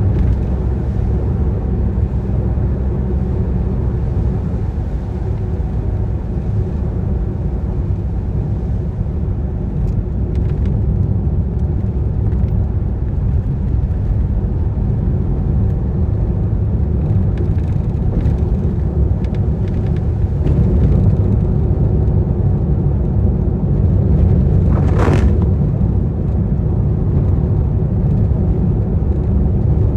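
Car driving on a rain-wet road: a steady low rumble of road and engine noise. Near the end comes one brief, louder swish.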